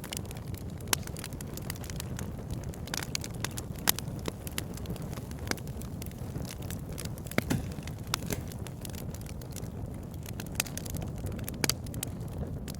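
Wood fire crackling, with irregular sharp pops and snaps over a steady low rumble. The loudest pops come about a second in, about four seconds in, midway and near the end.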